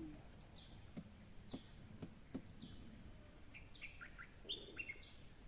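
Stripe-throated bulbul calling faintly in short chirping notes, bunched together about two-thirds of the way through: the varied call that sounds like a merbah kapur. Behind it are a steady high-pitched insect drone and quick falling notes about once a second.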